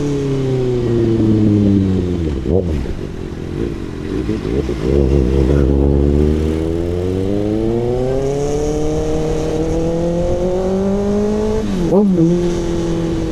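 Kawasaki ZX-6R inline-four through an SC Project CRT exhaust. The revs fall away for the first few seconds, settle into a low rumble, then climb steadily for several seconds, with a sharp dip and jump in revs near the end.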